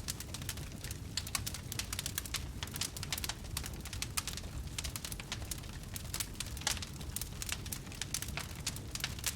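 Wood fire crackling: dense, irregular sharp pops and snaps over a low steady rumble of burning.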